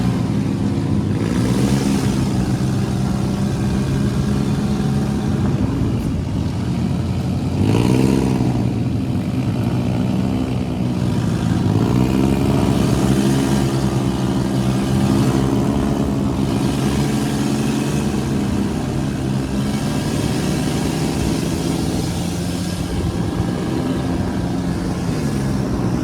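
Off-road dune buggy engine running while driven, its pitch rising and falling several times with the throttle, over steady wind and road noise.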